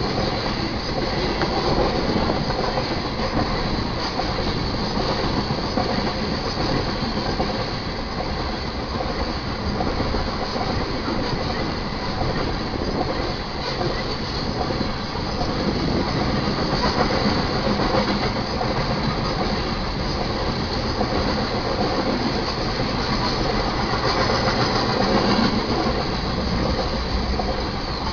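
Loaded coal train's hopper cars rolling past over a grade crossing: a steady rumble and clatter of steel wheels on the rails.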